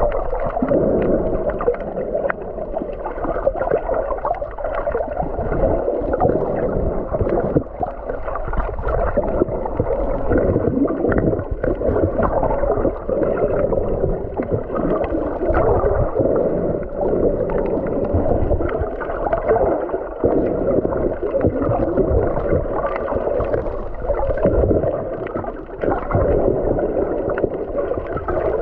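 Muffled underwater noise of a snorkeler's camera: water gurgling and sloshing with a steady crackle of small clicks and bubbles, dull and without any high sounds.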